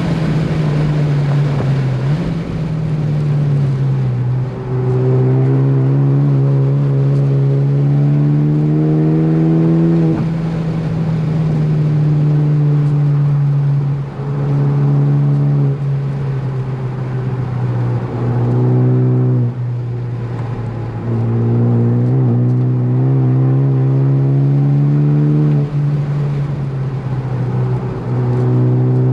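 Ford Focus ST engine running hard at track pace, its note climbing steadily for several seconds at a time, falling briefly and picking up again several times.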